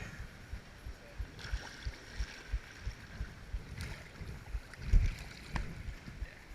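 Kayak on the water with a steady hiss of water and wind, and irregular low knocks and thumps of paddle and hull, a heavier thump about five seconds in.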